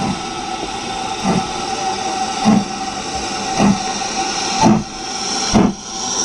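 Steam locomotive pulling away, with about six exhaust chuffs that come gradually quicker over a steady hiss of steam.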